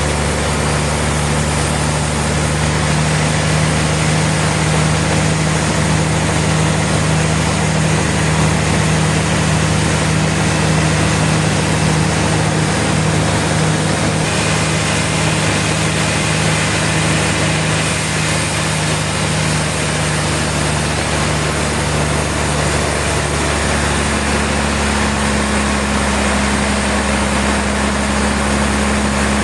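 Heavy sawmill machinery running steadily: a continuous engine-like hum over a broad mechanical noise, with the hum shifting up in pitch near the end.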